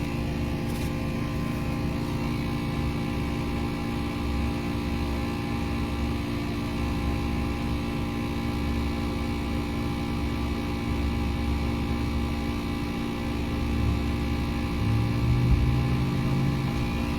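Steady idling hum of a vehicle, heard from inside the cabin: a low rumble with a constant set of steady tones above it, unchanging, with a brief extra low tone added near the end.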